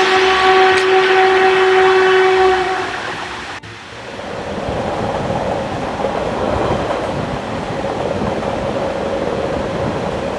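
Train horn sounding one long steady blast for about three seconds, then after a sudden cut the steady rumble of a train running.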